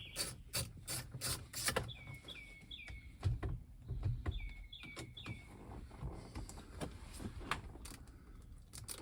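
A bird calling in the background: two runs of three quick falling chirps. Scattered light clicks and knocks of hand-tool work run beneath it.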